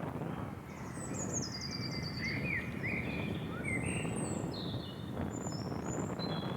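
Several wild birds chirping and calling, with short rising and falling whistles and a rapid trill about a second in, over a steady low noise.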